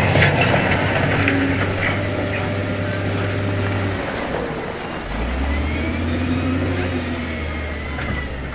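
Heavy diesel earth-moving machinery at work: a low engine drone drops away about four seconds in and comes back a second later. Metallic clanks and rattles sound in the first two seconds, and a thin squeal rises and falls near the end.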